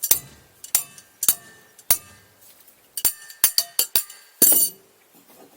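Hand tools striking metal: about ten sharp, irregular metallic clinks, each ringing briefly, then a short louder clatter near the end. This is work on a stuck engine part that will not budge.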